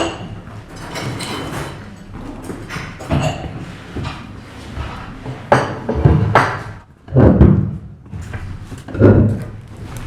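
Breakfast room ambience: a steady clatter of tableware and distant chatter, broken by several short loud thuds and scrapes, the loudest about six, seven and nine seconds in.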